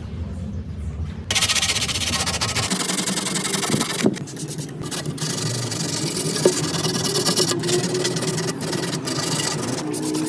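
Steady abrasive rubbing on a workpiece, starting abruptly about a second in, with a couple of sharp taps partway through.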